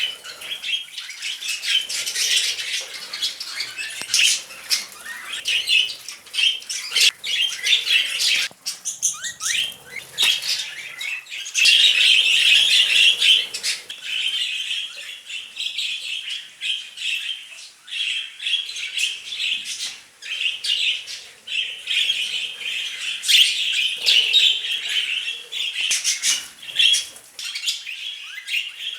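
Budgerigars chattering and squawking without a break, a busy mix of scratchy warbles, chirps and short clicks.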